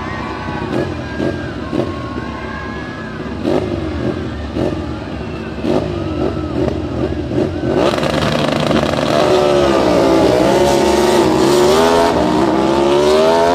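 Motorcycle engines revving, their pitch sweeping up and down again and again. From about eight seconds in, one engine grows louder and holds a wavering, revving note.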